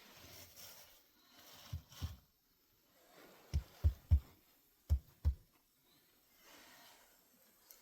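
Seven dull, low thuds in irregular groups: two, then three in quick succession, then two more, over faint background noise.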